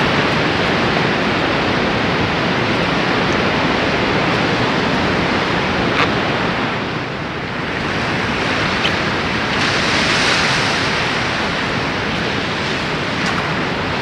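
Steady rush of ocean surf and wind on the microphone, swelling briefly about two-thirds of the way through, with a few faint clicks.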